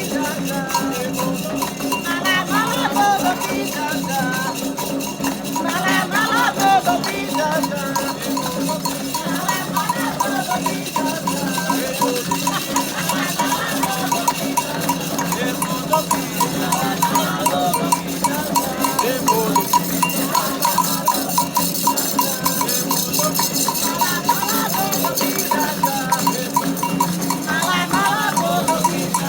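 Candomblé ritual song: voices chanting over shaken rattles and a struck metal bell keeping a fast, steady beat.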